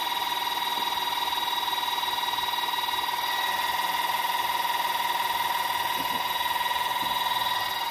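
Electric car jack's motor running steadily under load as it lifts the car, a constant whine.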